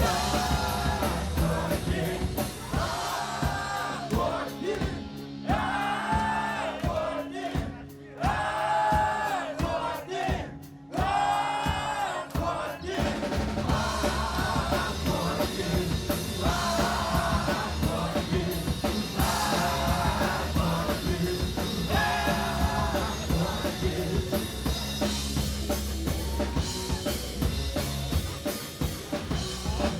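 Live rock band playing an instrumental passage of the song, with drum kit and a repeating wavering lead melody. The band comes in fuller about thirteen seconds in.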